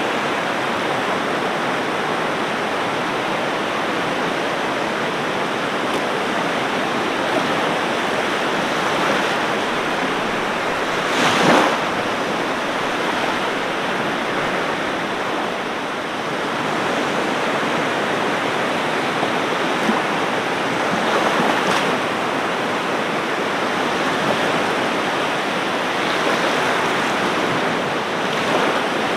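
Ocean waves washing onto a beach as a steady rush of surf, with one wave breaking louder about eleven seconds in.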